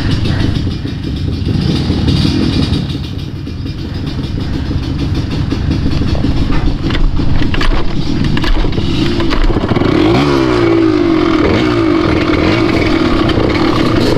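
A vehicle engine running over a loud low rumble, its pitch rising and falling from about ten seconds in as the engine speeds up and slows.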